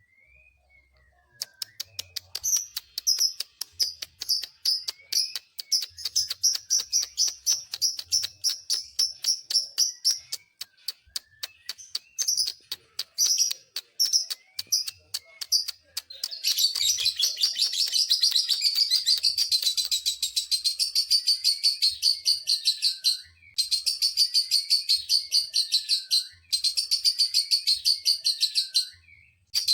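Lovebird singing: first a fast run of sharp, clicking chirps, then from about halfway a long unbroken high trilling chatter, broken only by a few brief pauses near the end. This is the long 'ngekek' chatter that Indonesian lovebird keepers prize.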